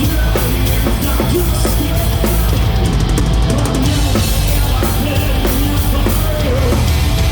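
Live hard rock band playing loud, with a full drum kit, bass drum and distorted electric guitars driving the song.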